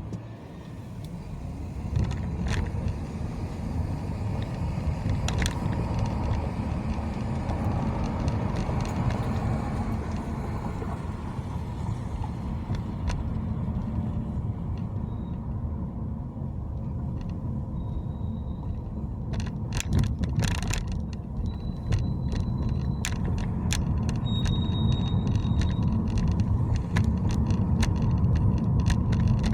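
Road noise of a moving car: a steady low rumble that builds over the first couple of seconds and grows louder near the end, with scattered sharp clicks and a cluster of rattling clicks about twenty seconds in.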